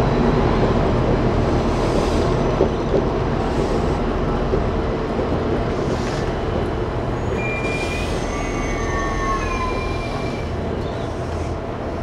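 Spirit of Queensland tilt train pulling in along the platform: a steady rumble of the carriages rolling past, with thin high-pitched wheel squeals setting in about two-thirds of the way through as it slows.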